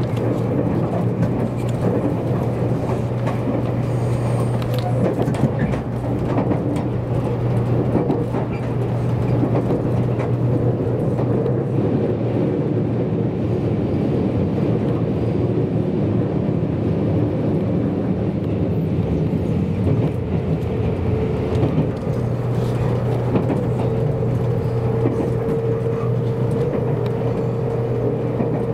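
Running noise inside a JR Kyushu 783 series limited express train in motion: a steady rumble with a constant low hum. A steady higher tone joins in about two-thirds of the way through.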